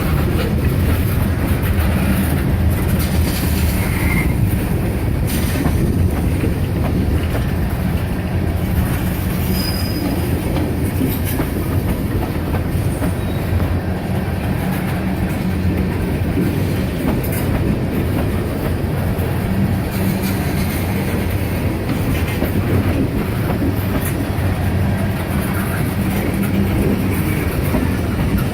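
Freight cars of a slow-moving manifest train rolling past on the rails, a steady rumble with a few brief, faint wheel squeals.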